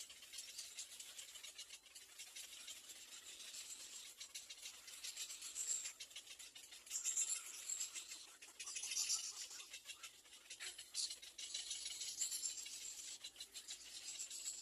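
Baby birds moving in a nest, with a steady scratchy rustling and short bursts of thin, high-pitched begging cheeps now and then.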